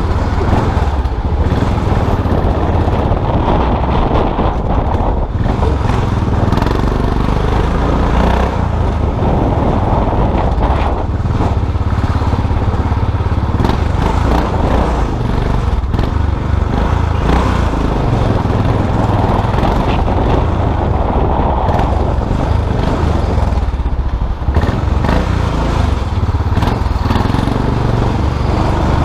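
Custom motorcycle engine running steadily under way, with a deep continuous exhaust note and road noise that rise and ease slightly with the throttle.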